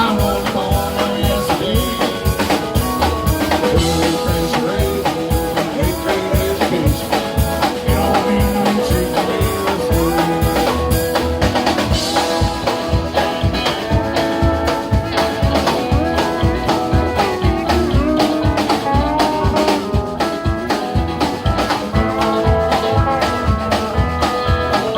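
Live band playing a song with no lyrics sung, a drum kit keeping a steady beat under the other instruments.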